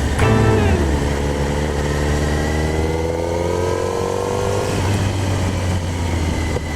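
Kawasaki Z1000's inline-four engine under way: the pitch falls briefly at first, then climbs steadily for about four seconds as the bike accelerates, and drops sharply about five seconds in.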